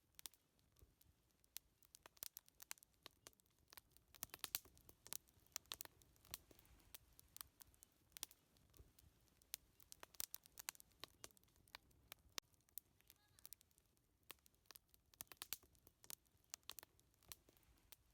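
Wood fire crackling: irregular sharp pops and snaps, some coming in quick clusters.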